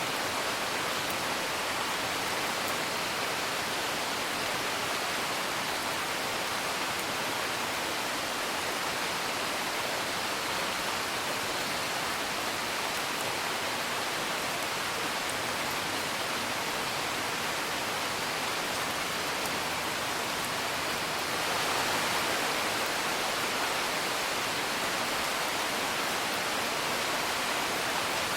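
Steady rain heard from indoors, a dense even hiss, with a few faint crackles of a wood fire. The rain swells slightly a little past the three-quarter mark.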